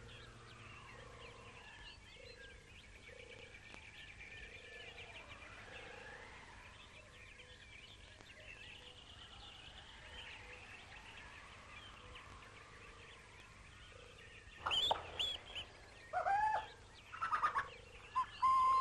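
Faint birdsong with scattered chirps. From about 15 seconds in come several loud, short bird calls that bend in pitch.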